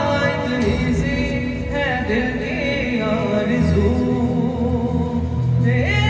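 Music: a voice singing a melodic line without clear words over sustained instrumental backing.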